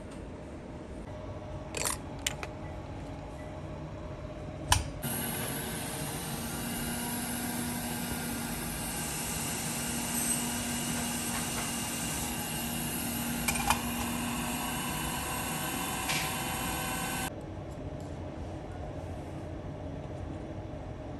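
A few light clicks, then a small electric repair tool starts up and runs steadily with a hissing whir for about twelve seconds before cutting off suddenly.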